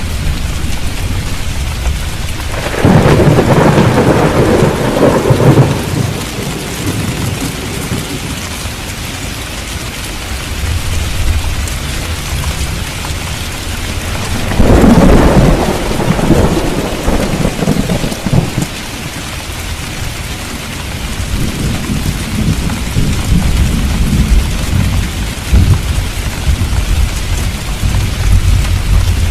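Steady rain with thunder: two loud claps rumble about three seconds in and again about fifteen seconds in, each lasting a few seconds, with a lower rolling rumble later on.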